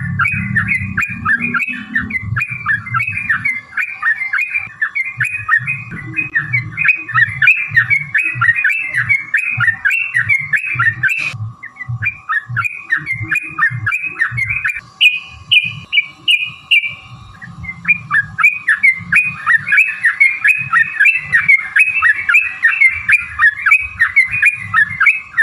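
Yellow-vented bulbul (trucukan) singing a long, rapid-fire run of repeated chattering phrases, the kind of song used as a lure recording to make other bulbuls answer. It breaks off briefly about halfway, then slips into a few higher, clearer notes before the chatter resumes.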